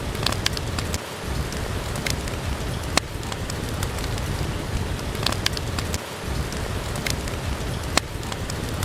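Steady rain, with sharp pops of a wood fire crackling every second or so.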